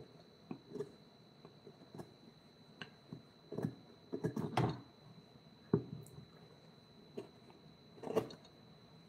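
Irregular light knocks, taps and scrapes, with louder clusters around the middle and near the end, over a faint steady high tone.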